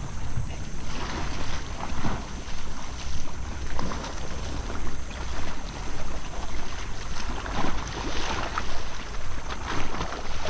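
Wind buffeting an action camera's microphone over seaside surf noise, swelling and easing about once a second.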